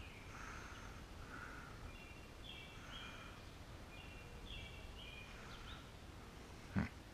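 Quiet woodland ambience with a bird singing a few short phrases of clear high notes in the middle, and a single sharp thump near the end.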